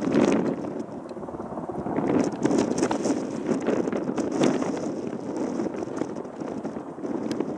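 Strong wind buffeting the microphone in gusts, a rumbling roar that swells and fades, with scattered crackles.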